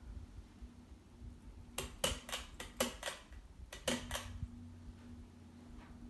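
Ceiling fan pull-chain switch being pulled to high: a quick cluster of light clicks and clinks about two to four seconds in as the chain is worked and rattles. Under it runs the fan motor's slight steady hum.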